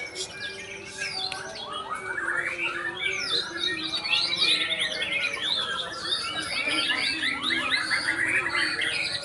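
Several caged white-rumped shamas (murai batu) singing at once at a songbird contest, a dense overlapping mix of fast whistles, trills and chattering phrases.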